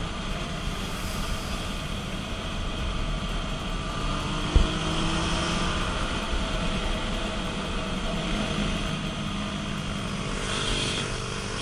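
Steady rushing road and wind noise from a vehicle in motion during a police pursuit, with one short sharp knock about four and a half seconds in.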